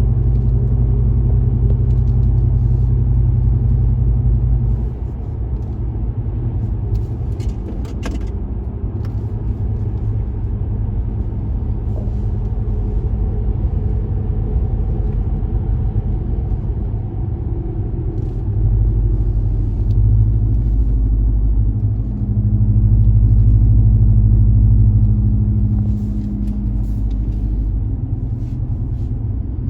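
Exhaust drone of a 2019 Ram Rebel's 5.7-litre Hemi V8 with the muffler and resonator deleted, heard from inside the cab while driving: a steady low rumble that eases about five seconds in and swells louder twice in the second half.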